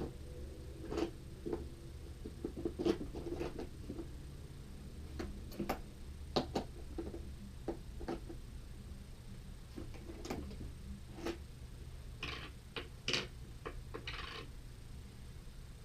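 Scattered clicks, taps and knocks of skateboard hardware and a skate tool being handled while the trucks and wheels are taken off, with a few short scraping sounds near the end.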